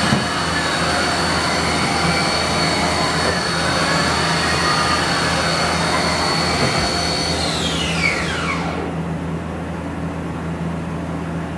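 Haas VF-2 vertical machining center running: a high steady whine from the spindle drive, with another tone swelling and falling back twice, then the spindle spinning down in a falling whine about eight seconds in. A steady low hum of the machine carries on afterwards.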